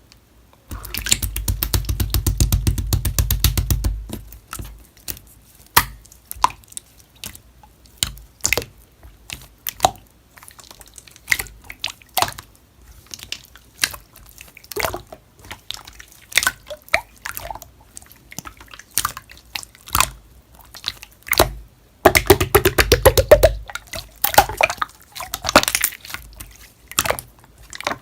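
Slime being squished and poked by hand, making wet clicks and pops from trapped air. Two long runs of rapid crackling clicks stand out, one starting about a second in and one about 22 seconds in, with scattered single pops between.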